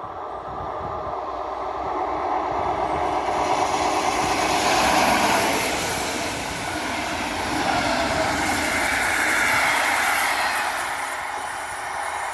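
A train passing on the rails, growing louder to a peak midway, with a second swell a few seconds later before it eases off.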